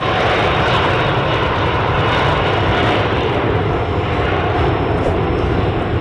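Boeing 737 jet airliner coming in to land, its twin turbofan engines making a loud, steady rushing noise that starts abruptly.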